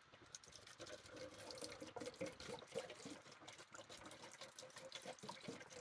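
MEK solvent being poured from its can into a plastic container: a faint, steady pouring trickle that eases off near the end.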